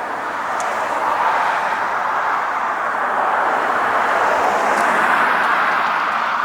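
Steady rushing noise of a passing road vehicle, swelling gradually to a peak about five seconds in and then easing off.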